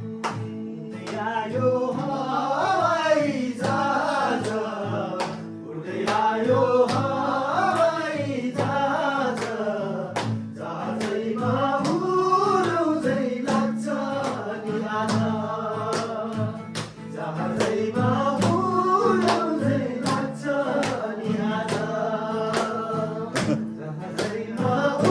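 A song: a male voice singing over steady instrumental accompaniment.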